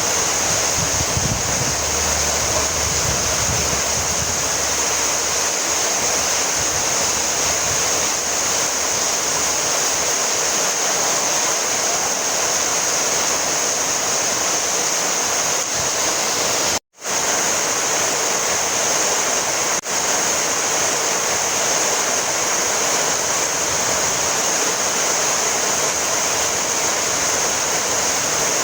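Heavy rain falling steadily, an even dense hiss. It cuts out to silence for a split second about two-thirds of the way through, then carries on.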